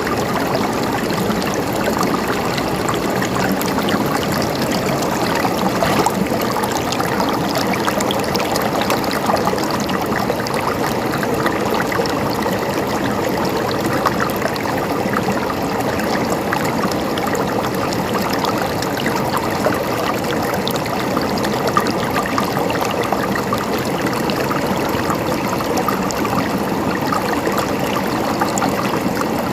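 River water flowing and splashing over stones in a steady, even rush with small bubbling splashes.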